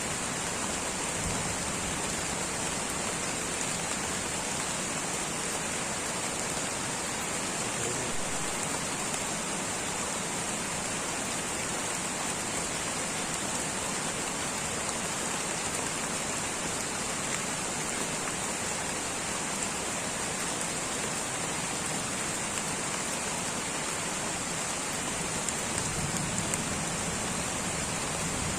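Light rain falling steadily in a tropical rainforest, an even hiss of drops with a steady high-pitched hiss running through it.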